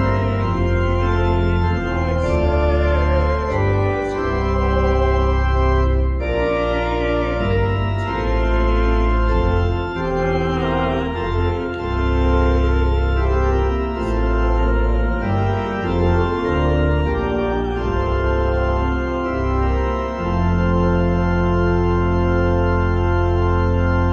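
Organ playing slow, sustained chords in a hymn or voluntary, ending on a long held chord.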